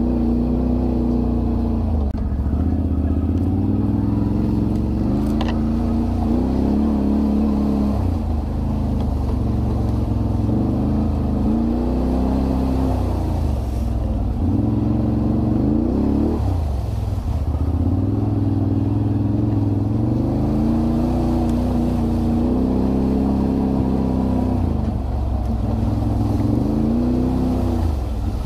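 Can-Am Renegade 1000 ATV's V-twin engine running while riding, its pitch rising and falling over and over as the throttle opens and closes.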